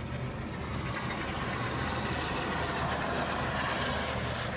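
Motorboat passing close by: a steady low engine hum under a rushing noise that swells through the middle and eases off near the end.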